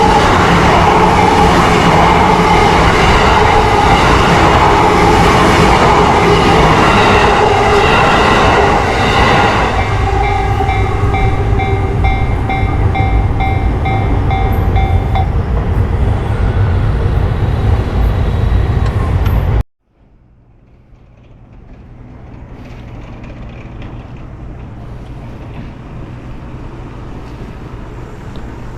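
Train running loud, with a steady whine and some pulsed tones partway through, then cut off abruptly. A much quieter steady rumble follows.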